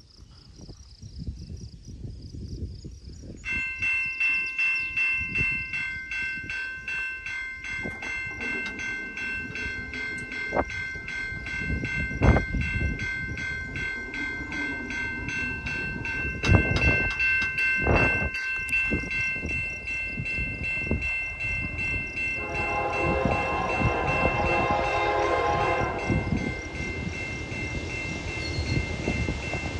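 Level-crossing warning bell ringing steadily from a few seconds in. About two-thirds of the way through, a CN Dash 9 locomotive's K3L air horn sounds a long blast for the crossing, and another blast starts right at the end.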